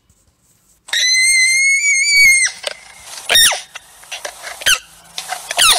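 Alpaca giving shrill, high-pitched screaming calls: one long call held for about a second and a half, then three shorter ones.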